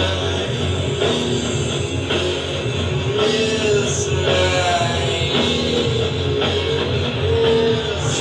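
Rock song played from a vinyl record: guitar and drums going steadily.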